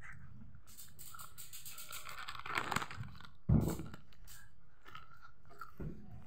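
Close-up crunching and chewing of food, with crisp crinkling and tearing clicks, like a snack wrapper being handled. A dull thump about three and a half seconds in is the loudest sound.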